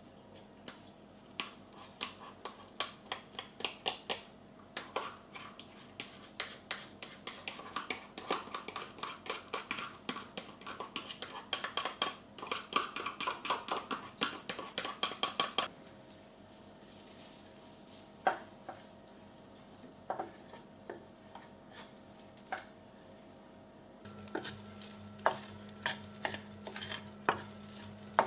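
A utensil stirring in a bowl, clicking quickly and repeatedly against the sides for about fifteen seconds, then a few scattered taps. Near the end a steady low hum starts up under more clinks.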